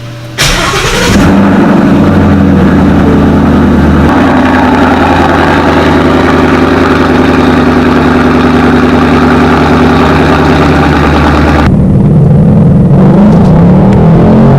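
Ford Mustang GT's V8 engine starting with a sudden loud flare about half a second in, then running steadily. Near the end the engine note starts to rise and fall.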